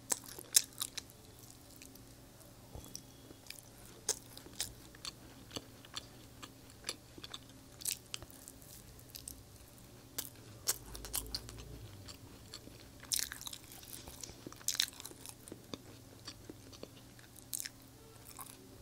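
Close-miked mouth sounds of a person chewing and biting Indian sweets: sharp, wet clicks and smacks at irregular intervals, over a faint steady low hum.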